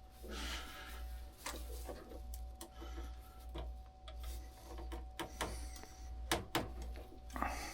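A scatter of sharp clicks and knocks, a few louder ones near the end, over a low pulsing hum.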